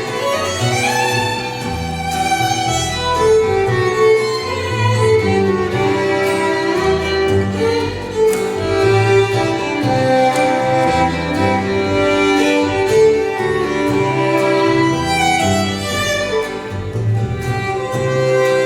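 Instrumental break in a live band performance: a violin plays the melody in long, sustained notes over a moving bass line.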